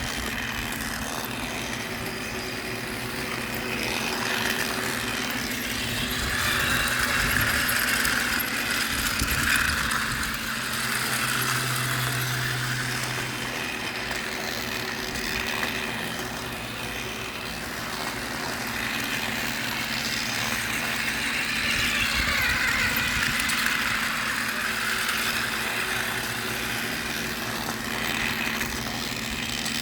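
Steady motor hum with a rushing mechanical sound that swells and fades twice, about fifteen seconds apart.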